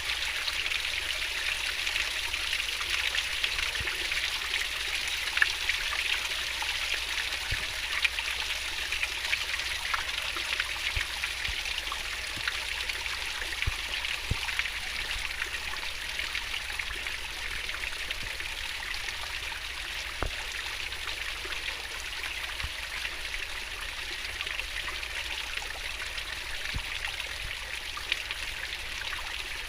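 Swiftly flowing stream babbling steadily, with many small splashes and trickles in the rush of water.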